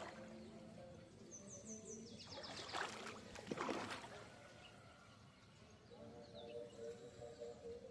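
Quiet outdoor ambience. A bird gives a quick run of five or six short, high, falling chirps about a second in. Two brief rustling handling noises follow around three seconds in.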